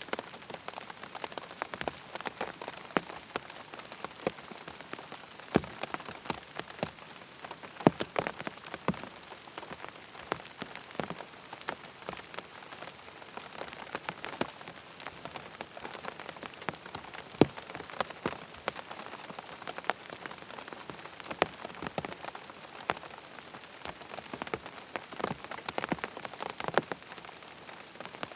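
Steady rain falling, with many sharp, irregular drop taps standing out above the even hiss.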